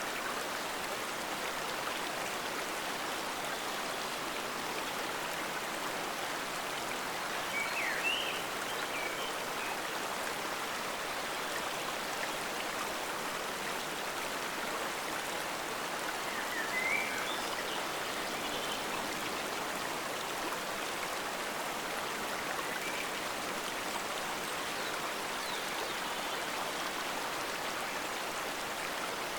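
Water of a forest stream flowing steadily, a continuous even rushing. A few brief high chirps come through it, two of them slightly louder, about a quarter and just over half way through.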